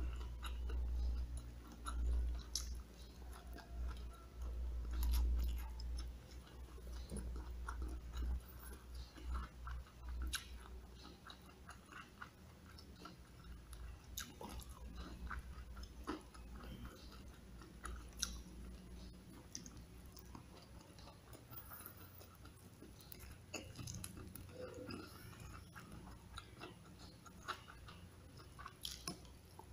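Close-miked chewing of rice and fried chicken, with scattered short clicks and mouth smacks. A low rumble runs through roughly the first eight seconds.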